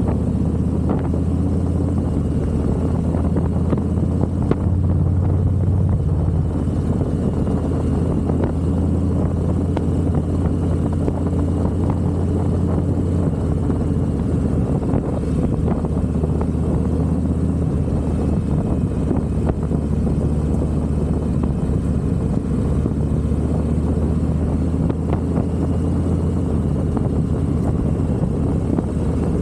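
Harley-Davidson motorcycle's V-twin engine running steadily at a low, even pitch while riding, with no big revs or gear changes.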